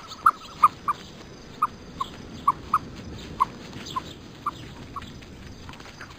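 Penguins calling: a string of short, high peeps, several in the first second and then thinning to about one a second, over a steady background hiss.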